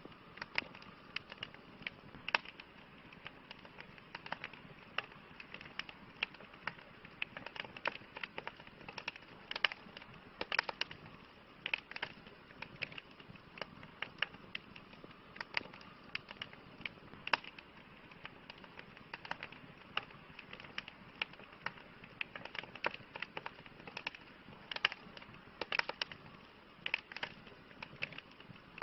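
Campfire crackling: irregular sharp pops and snaps, many each second, over a soft steady hiss.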